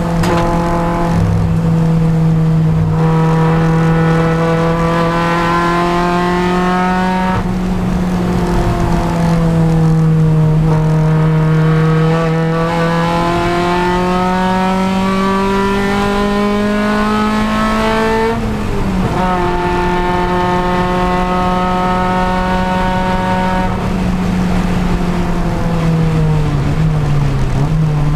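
Honda Civic Si race car's four-cylinder engine held at high revs under racing load, its pitch climbing slowly through long pulls. There is a quick upshift drop about eighteen seconds in and a brief lift and pickup near the end.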